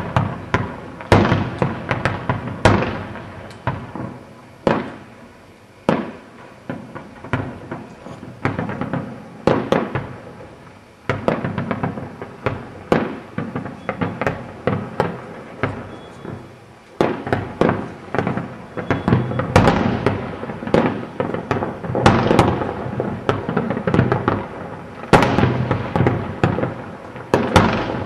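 Aerial firework shells bursting in an irregular barrage of bangs, each with an echoing tail. The bangs thin out a few seconds in, then come thick and fast.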